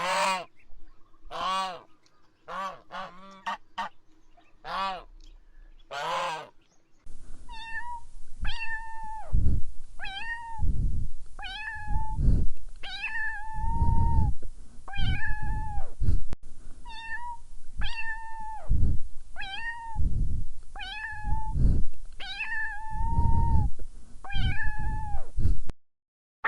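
Cat meowing repeatedly: first a run of short arched meows, then after a cut a steady series of about one meow a second, each dropping and then holding its pitch.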